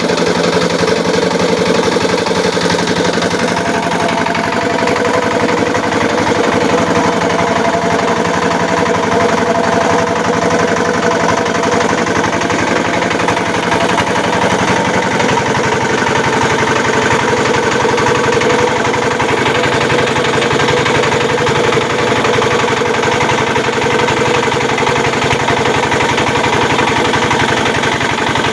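Engine of a homemade gambir-leaf grinding machine running steadily.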